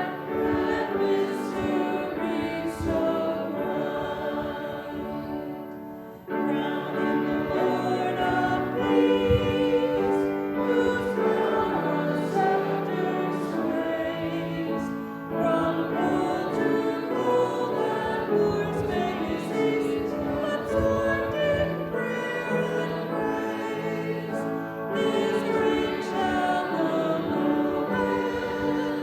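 A church congregation singing a hymn together in sustained phrases, with a short break between lines about six seconds in.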